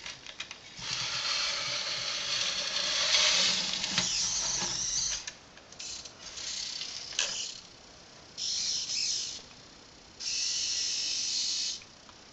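Small electric drive motors and plastic gears of a Siku Control32 radio-controlled Fendt model tractor whirring in four short bursts, with a few clicks between them.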